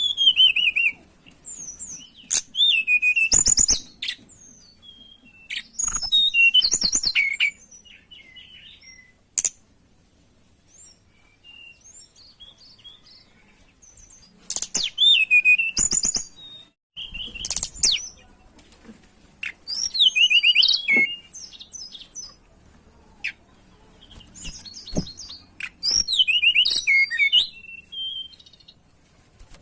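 Tledekan gunung songbird singing in repeated bursts of fast, high, twittering phrases, with a lull of a few seconds about a third of the way in. It is a 'gacor' lure song used to set other birds singing.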